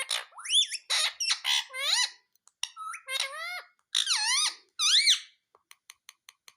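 Pet parrot calling: a run of harsh squawks and rising-then-falling whistled calls, several in quick succession. Near the end, a quick series of short clicks follows.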